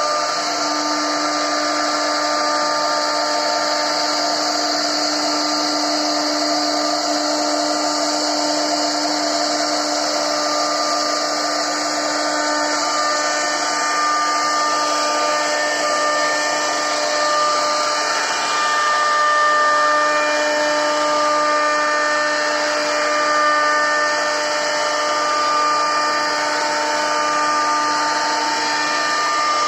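CNC router spindle running steadily as its bit carves a wooden board, a continuous high whine over the hiss of cutting, its tone shifting about halfway through.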